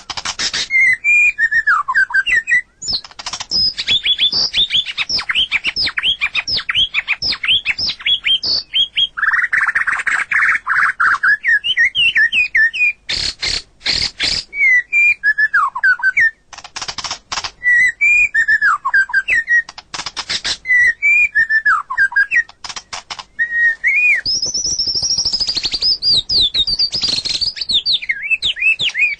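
White-rumped shama (murai batu) singing a long, varied song: whistled notes sliding down in pitch, fast high trills and harsh rattling notes, in quick phrases with short pauses between.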